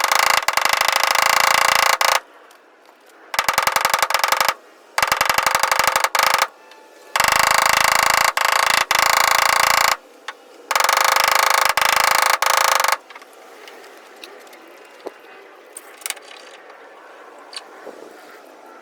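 A machine buzzing rapidly in on-off bursts of one to two seconds, about seven bursts in all, stopping about two-thirds of the way in. After that only a few faint clicks remain.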